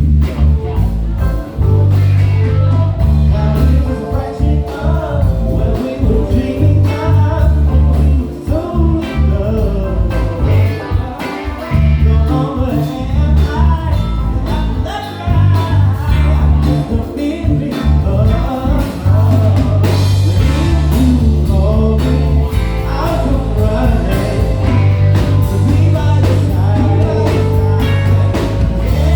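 A live soul band playing a song, with a heavy bass line, drums and keyboards under a wavering lead melody.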